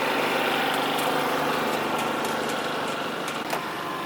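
A vehicle engine running steadily, easing off slightly near the end, with a single short click about three and a half seconds in.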